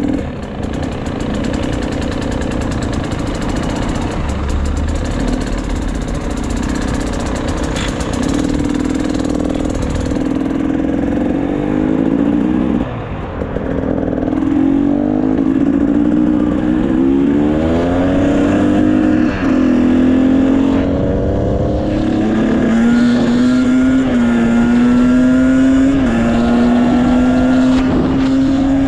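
Motorcycle engine running under way, fairly steady at first, then accelerating through the gears: its pitch climbs and drops back at each of several shifts in the second half.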